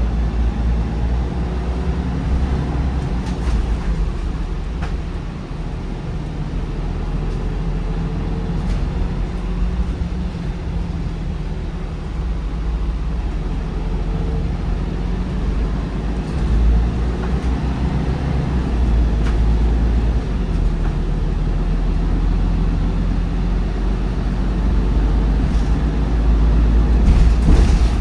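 MAN D1556LOH diesel engine of a MAN bus with a ZF Ecolife automatic gearbox, running steadily under way; its pitch drifts up and down as the bus changes speed.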